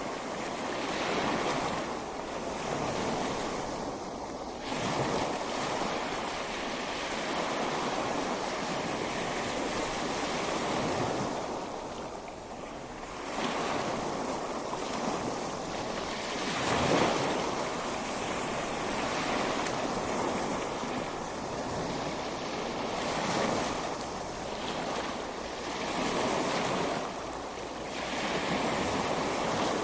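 Ocean surf washing onto a beach: a continuous rush of breaking waves that swells and ebbs every few seconds, with one louder surge a little past halfway.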